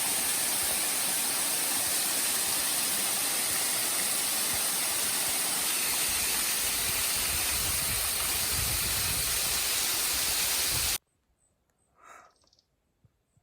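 Rushing mountain water: a loud, steady hiss that cuts off abruptly about eleven seconds in.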